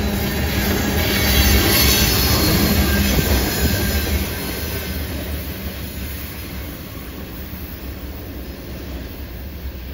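Loaded tank cars of a freight train rolling past on a curved track, wheels rumbling and clacking with a faint high squeal from the wheels on the curve. The sound dies away from about halfway through as the end of the train moves off.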